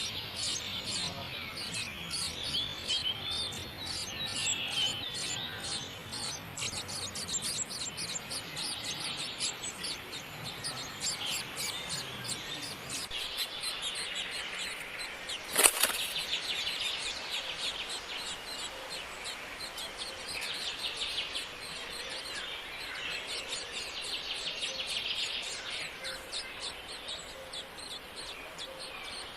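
Birds chirping continuously in rapid, high short calls, with one sharp click about halfway through.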